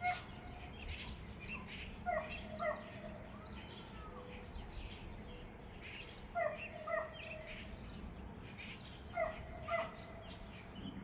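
Birds calling: a short pitched call, given twice in quick succession and repeated every three to four seconds, with fainter high chirps in between, over a steady low background noise.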